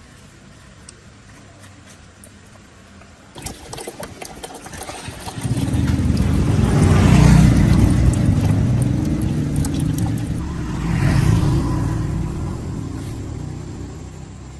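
An engine: a few seconds of rattling, then it runs up loudly, swells again about three-quarters of the way through, and fades away near the end.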